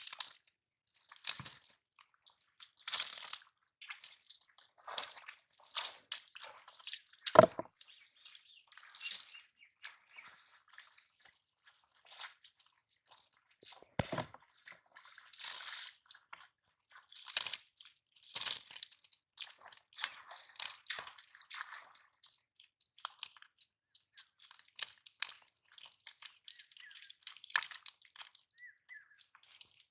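Irregular close-up crunching and rustling handling noises, with two heavier thumps: a loud one about seven seconds in and another near fourteen seconds.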